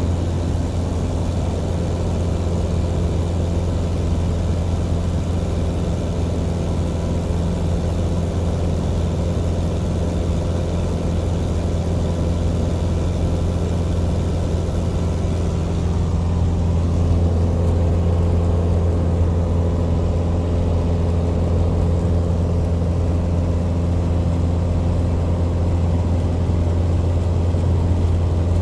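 Legend Cub light aircraft's piston engine and propeller running steadily at high power, a constant low drone that gets slightly louder about halfway through.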